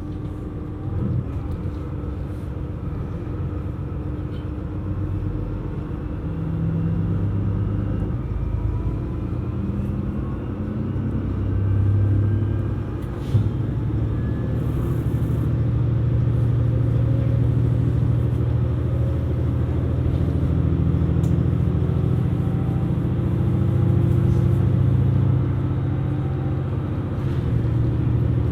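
KiHa 127 series diesel railcar running, its engine droning with a few step changes in pitch as it gets louder, then holding steady. A brief knock about 13 seconds in.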